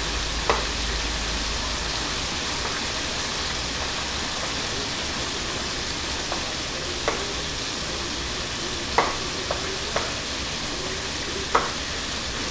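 Steady sizzle of chicken pieces frying in hot oil, with a few short light knocks, typical of a spoon against a pot as cheese is stirred into the dip.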